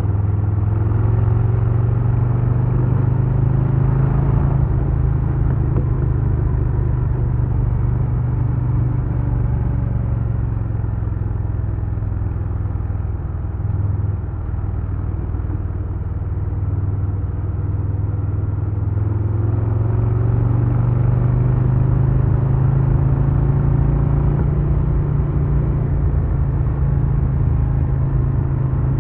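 2022 Harley-Davidson Low Rider S's Milwaukee-Eight 117 V-twin running under way on the road. The engine note eases down slowly, dips briefly about halfway through, then climbs back up over several seconds and holds steady.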